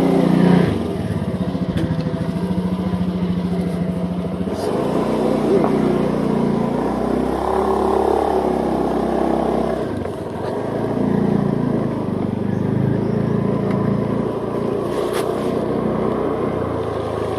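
Motorcycle engine running while riding along a road, its pitch rising and falling with changes in speed, over steady wind and tyre noise.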